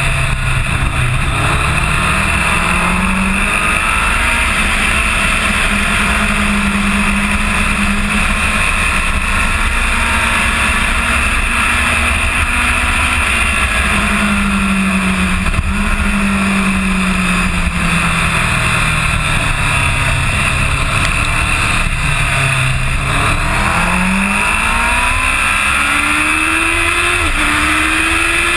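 2005 Kawasaki ZX-10R's inline-four engine at speed, heard from a camera on the bike's fairing under heavy wind noise. The engine note holds fairly steady, falls away past the three-quarter mark as the bike slows, then climbs hard, with an upshift near the end.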